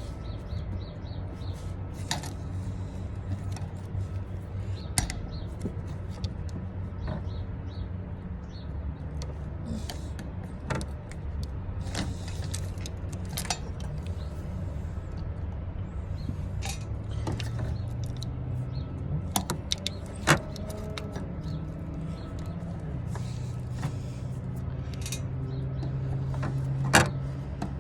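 Scattered clicks and knocks of hand work on stuck plastic fuel-line fittings at a fuel pump sending unit, over a steady low hum.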